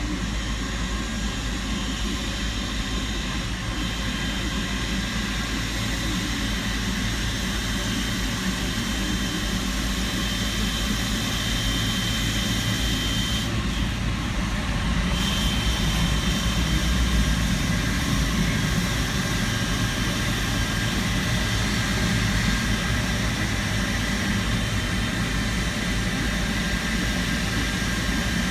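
Steady jet aircraft engine noise: a low rumble under several constant high whining tones, swelling slightly about halfway through.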